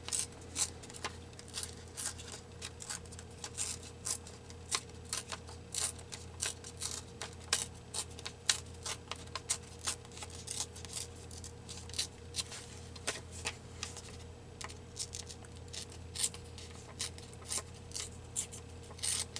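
Paper being handled and cut by hand at a craft table: an irregular string of crisp snips, clicks and rustles, several a second.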